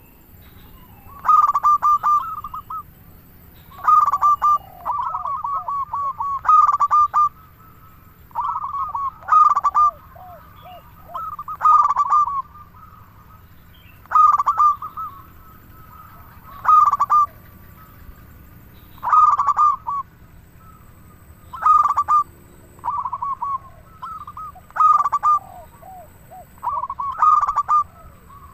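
Zebra dove (perkutut) cooing persistently. Short phrases of rapid, bubbling coos repeat about every two and a half seconds.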